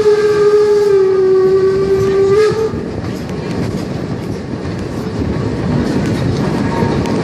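A train's whistle sounds one long steady note, rising slightly just before it cuts off about two and a half seconds in. The train then runs on with a steady rumble and rattle of wheels on the rails.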